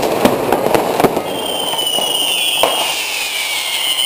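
Fireworks going off: a quick run of bangs and crackles, then from about a second in a long high whistle that sinks slightly in pitch, with scattered bangs continuing.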